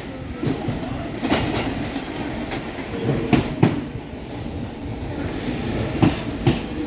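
Subway train running on the rails with a steady rumble, its wheels clacking sharply over rail joints, several times in close pairs.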